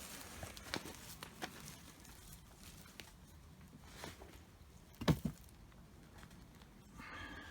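Sweet potatoes and compost being handled in a bucket: scattered light knocks and rustles, with one louder thump about five seconds in.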